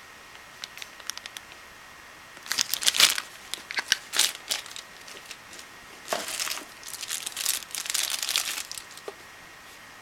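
Packaging being handled during an unboxing, crinkling in two bursts of a couple of seconds each, with a few small crackles before them.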